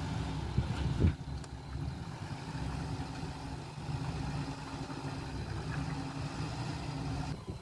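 Diesel engine of heavy earthmoving machinery running steadily, with a single knock about a second in.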